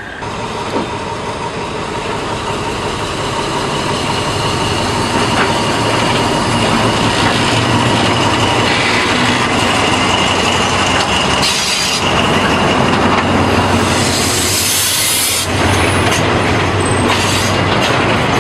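Train running on the rails, growing louder over the first few seconds, with a steady high wheel squeal over the rolling noise and two short hissing surges in the second half.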